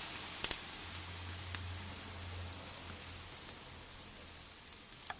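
Campfire crackling: a faint steady hiss with a few scattered sharp pops, slowly fading out.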